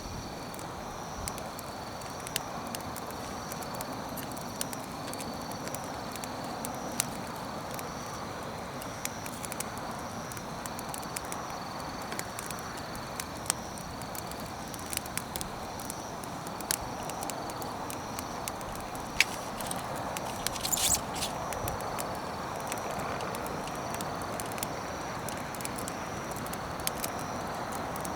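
Wood campfire crackling, with scattered sharp pops and a short hiss about two-thirds of the way through.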